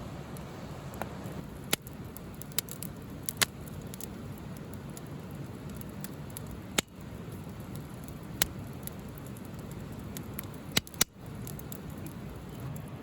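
Wood fire burning: a steady rushing noise with sharp, irregular pops and crackles, about ten in all.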